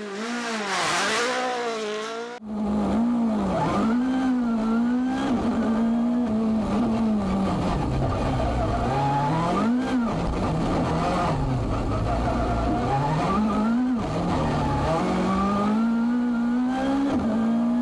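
Hyundai i20 N Rally1 car's turbocharged four-cylinder engine under hard driving, its pitch climbing and dropping again and again through gear changes and braking. The sound changes abruptly about two and a half seconds in.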